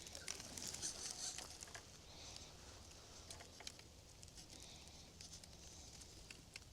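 Faint, scattered ticks and light crunching of grit and small stones, with a soft hiss underneath.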